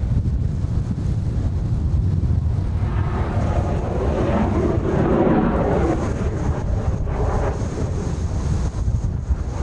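Strong wind buffeting the microphone, with a Blue Impulse Kawasaki T-4 jet passing in the distance: its sound swells and fades about halfway through, and a faint thin high whine runs through the second half.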